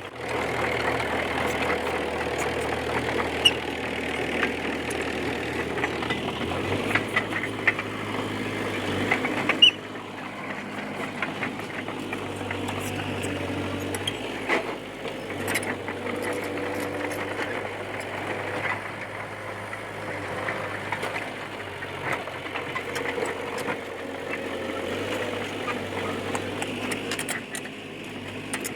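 D20P bulldozer's diesel engine working hard, with short clanks and squeaks from the tracks and blade. About ten seconds in, the engine note drops abruptly and it carries on at a lower, steadier level.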